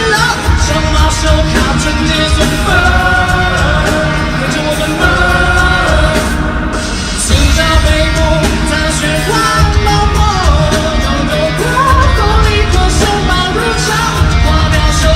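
Live rock-pop song: a male singer's voice over a band with a heavy, pulsing bass and drums.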